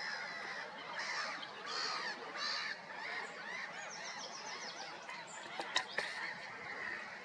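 Canada geese honking, with a run of calls through the first few seconds. Two sharp clicks come near the end.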